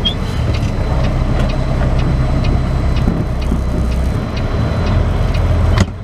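Semi-truck engine running steadily at low speed inside the cab, with a light ticking about twice a second. Near the end a sharp click is heard and the engine sound drops.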